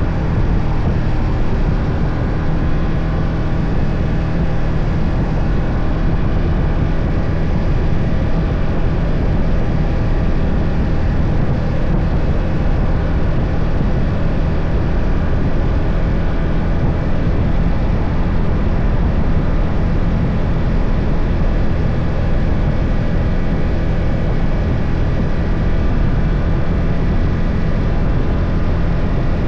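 BMW F 800 GS parallel-twin engine running steadily under way, its note holding an even pitch with no revving or gear changes.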